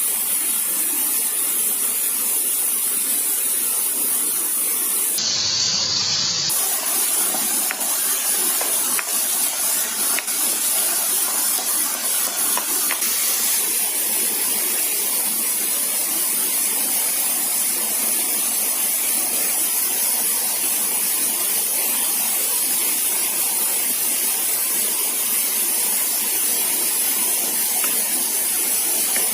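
Steady forest ambience: an even hiss with a constant high insect drone above it, briefly interrupted about five seconds in.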